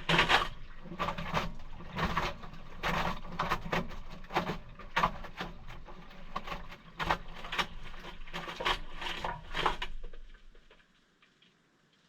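Maytag washing machine in the wash action of a cold cycle: the motor hums while water and wet towels slosh and splash in irregular surges about once a second, then the motor stops about ten seconds in.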